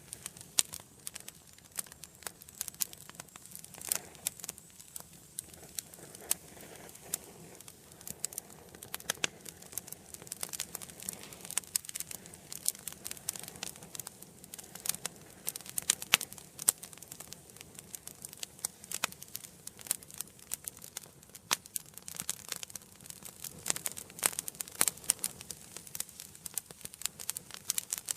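Wood fire burning in an indoor fireplace: irregular sharp crackles and pops over a soft steady hiss.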